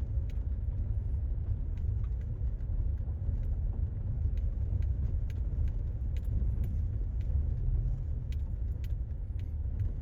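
Car driving slowly on a dirt road: a steady low rumble of tyres and engine, with scattered small clicks and rattles.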